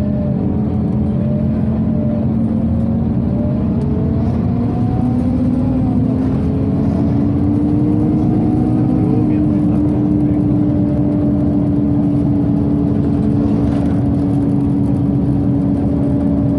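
Cabin sound of a Scania OmniCity city bus under way: a steady hum of engine and ventilation, its main tone rising a little in pitch about five to eight seconds in as the bus speeds up.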